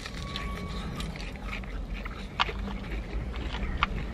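A person chewing a mouthful of crispy breaded food close to the microphone, with scattered crunchy crackles, two of them sharper a little past halfway and near the end.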